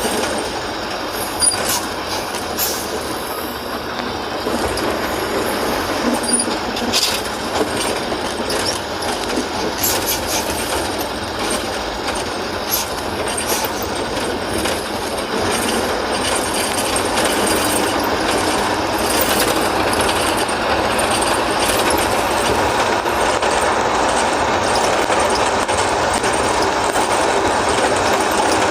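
JCB 3DX backhoe loader's diesel engine running hard under load, with metallic clanks and knocks from the working machinery.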